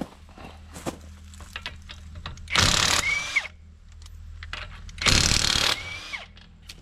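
Impact wrench run in two short bursts of under a second each, about two and a half seconds apart, each ending in a brief falling whine as the motor spins down. Light clicks and clinks of tool handling fall between the bursts.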